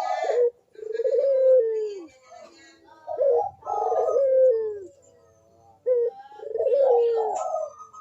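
Barbary dove (puter) cooing in a steady run of calls: each phrase is a short rising note followed by a long, drawn-out note that falls in pitch. There are about four phrases with short pauses between them.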